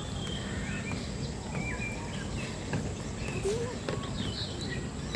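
Several birds chirping and whistling: short, scattered calls, some sliding up or down in pitch, over steady background noise.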